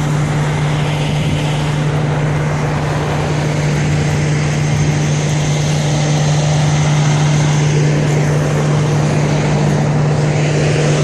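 A vehicle engine running at one steady pitch under a loud, even rushing noise.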